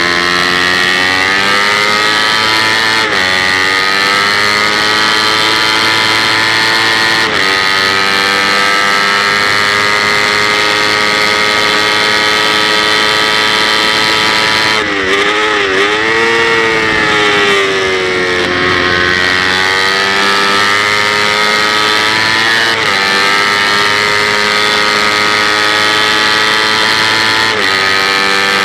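Kawasaki Ninja 250 race bike's engine revving hard under acceleration, heard on board, with its pitch climbing steadily. Four times it breaks off briefly and picks up again lower, as it shifts up through the gears. About halfway through the revs dip and swing up and down before climbing again, as the bike slows for a corner and accelerates out.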